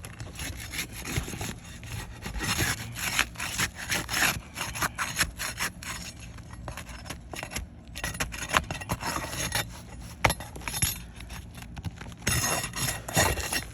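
Asphalt roof shingles being pried loose, with irregular scraping and crackling as their sealant strips break, in runs with short pauses.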